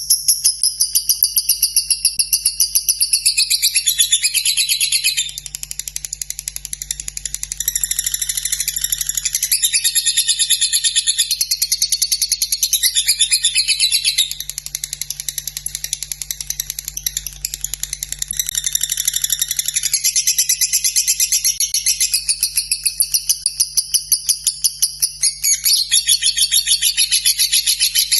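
Lovebird singing its long 'ngekek' chatter: a fast, even run of sharp, high-pitched chirps that keeps going without a break, shifting slightly in pitch every few seconds. A faint low hum runs underneath.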